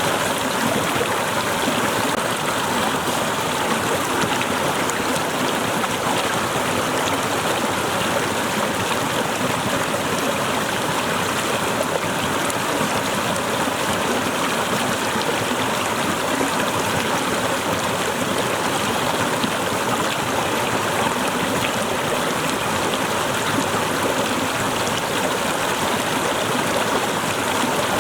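Small waterfall splashing and rushing steadily, a dense even water noise with no change.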